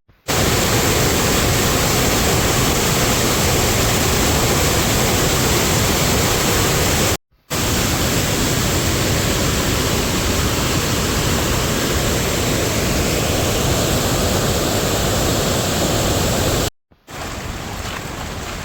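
Heavy rain falling, a dense steady hiss, cut off twice by brief silences about seven seconds in and near the end. After the second break the rain is lighter, with separate drops heard.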